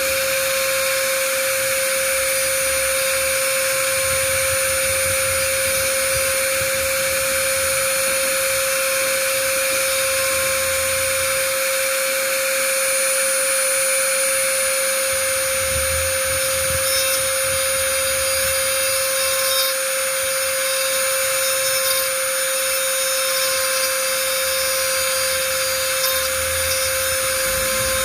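A small electric motor or power tool running steadily, a constant hum over a hiss, with a few faint ticks after the middle.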